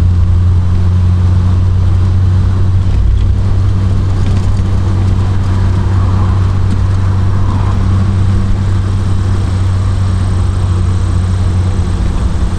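Triumph Vitesse Mk2's two-litre straight-six engine running at a steady cruise, its low drone holding an even pitch.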